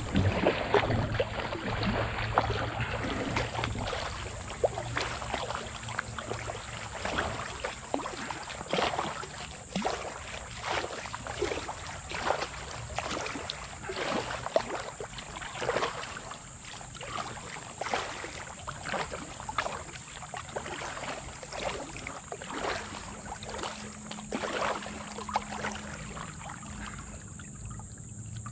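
Kayak paddle strokes dipping and splashing in the water, repeated about once or twice a second.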